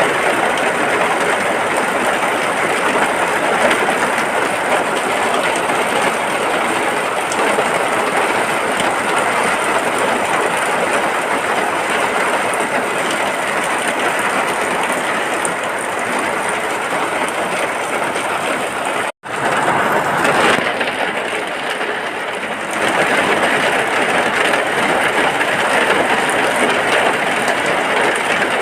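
Heavy, steady rain with an even, dense hiss. It cuts out for an instant about two-thirds of the way through, then carries on with a slightly different texture for a few seconds before settling back.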